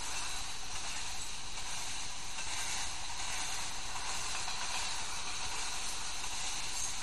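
Freight train of tank cars rolling past: a steady hiss of steel wheels on the rails.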